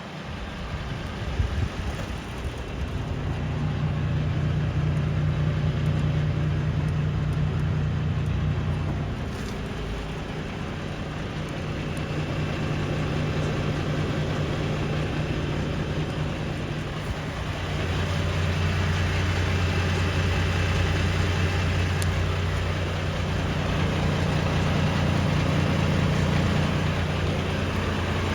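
Diesel engine of a Volvo FL280 truck idling steadily; it grows louder over the first few seconds and drops back for several seconds in the middle before coming up again.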